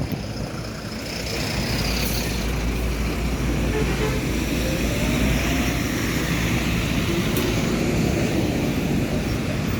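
Highway traffic in a slow jam: vehicle engines running with tyre and road noise, a steady low sound that swells slightly after the first second.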